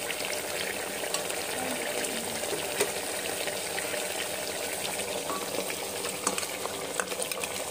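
Chicken pieces frying in a pressure-cooker pot, giving a steady sizzle, with a few light clicks and knocks from a metal ladle and the grinder jar against the pot.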